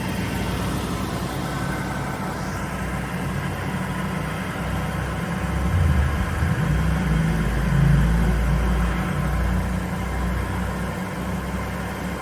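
Atlas Copco 3.7 kW oil-free scroll compressor running under load as it pumps up its air receiver, at about 5 bar and climbing toward its 8.5 bar cut-out. A steady low hum with constant tones, swelling slightly a few times.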